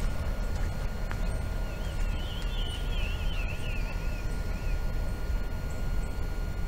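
A bird's warbling call, a rapidly wavering high-pitched call lasting about three seconds from a little after a second and a half in, over a steady low rumble.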